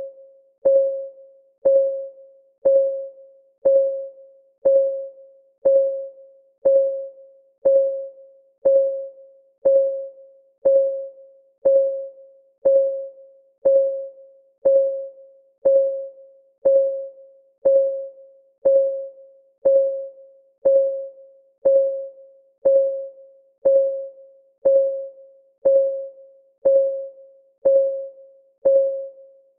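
Clock ticking, one even tick per second, each tick a short click with a brief pitched ring that dies away quickly.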